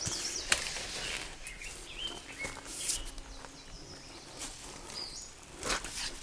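Small birds chirping intermittently in short, high calls, with a few brief clicks or knocks in between.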